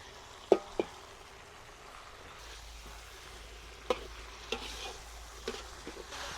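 Food sizzling in a cooking pot while it is stirred, with several sharp knocks, the loudest about half a second in.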